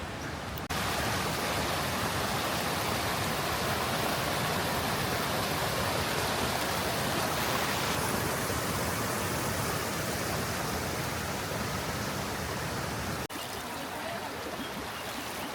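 Steady rush of the Krka River's water pouring over falls and cascades. It turns suddenly louder just under a second in and drops back suddenly near the end.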